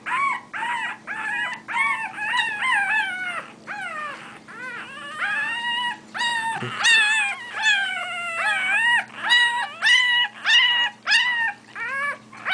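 One-week-old English bulldog puppy crying: a continuous string of short, high-pitched squealing whines that bend up and down in pitch, about one or two a second, growing louder in the second half.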